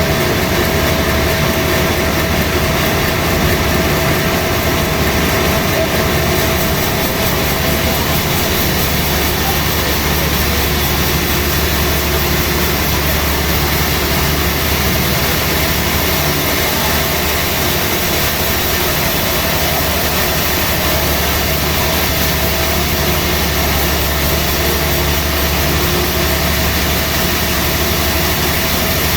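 Sawmill machinery running steadily: a loud, constant mechanical noise with no break, and a faint steady tone in the first several seconds.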